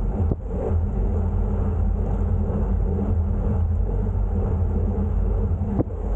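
Steady low rumble of riding noise on a bicycle, wind on the microphone mixed with tyre and road noise, with a short knock just after the start and another near the end.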